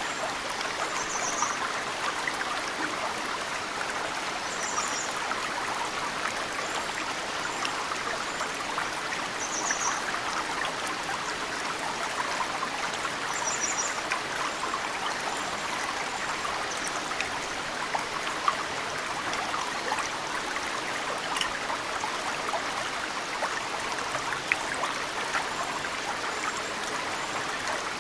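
Mountain stream flowing steadily, with snowmelt dripping into it in occasional sharp drops. A small bird gives short, high chirps several times.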